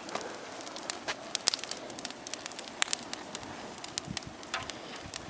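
Wood bonfire crackling: irregular sharp snaps and pops over a steady low hiss of burning.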